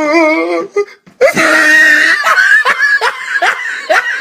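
Meme sound clips: a drawn-out, wavering voice ends just under a second in. After a brief gap comes loud, hysterical laughter, first shrieking and then in quick repeated rising whoops.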